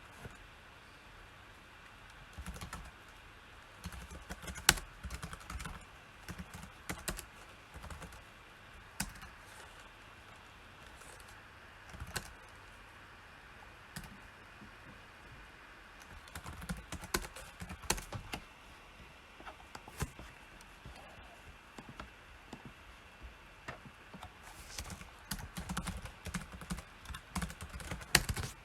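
Typing on a computer keyboard: irregular runs of key clicks with short pauses between them, and now and then a single sharper key strike.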